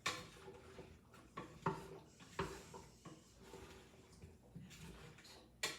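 A cooking utensil knocking and scraping in a pot of stew, with about five short, sharp knocks, the loudest near the end. The pot is being deglazed with beef broth, the browned bits scraped off the bottom.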